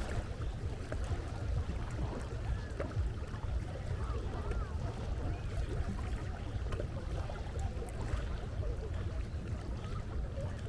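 Sea ambience: water and waves with a steady low wind rumble on the microphone, and a few faint short high cries.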